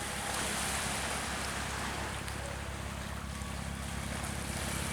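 Sea fishing boat's engine running steadily under way, with wind and rushing water over it.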